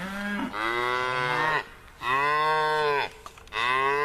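Red Angus cattle mooing: three long, drawn-out moos, each about a second long, with short pauses between them.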